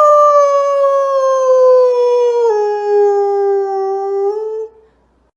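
A dog howling: one long howl that slowly falls in pitch, drops a step about two and a half seconds in, and stops shortly before the end.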